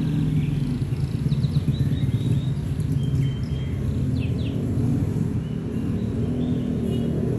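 Domestic canary singing faintly in short chirping phrases, with quick downward-sweeping notes, over a loud, steady low rumble.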